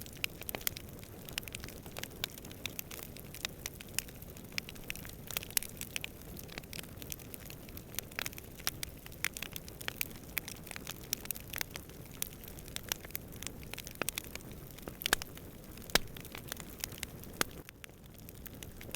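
Campfire crackling, with irregular sharp pops and snaps from the burning wood and a couple of louder snaps about three-quarters of the way through, over a low steady rush of distant wind.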